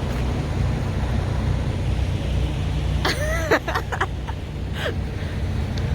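Steady low rumble of an idling semi-truck engine, with a short vocal sound, like a throat-clear or murmur, about three seconds in.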